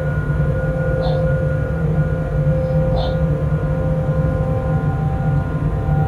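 Freight locomotive running along the line, heard from inside the cab: a steady rumble with several steady humming tones. Two short high chirps come about one and three seconds in.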